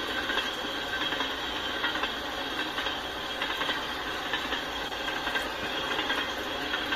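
Freight train tank cars rolling through a road grade crossing: a steady rumble and clatter of steel wheels on the rails, with scattered small clicks.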